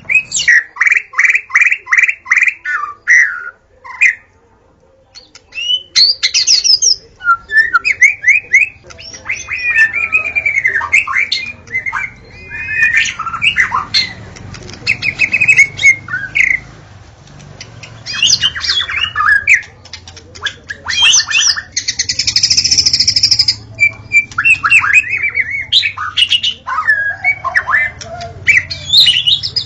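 White-rumped shama singing a loud, varied song of fast repeated notes, slurred whistles and trills. The song breaks off briefly about four seconds in, and a harsh buzzy note comes about two-thirds of the way through.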